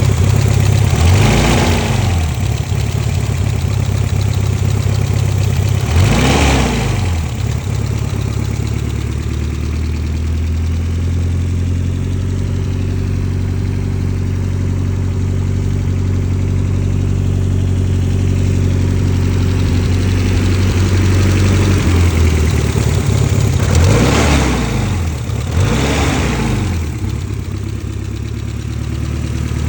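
BMW E30 M3's S14 four-cylinder engine idling steadily, blipped four times: once near the start, once about six seconds in, and twice close together near the end, each rev rising and falling back to idle. The engine is said to be knocking.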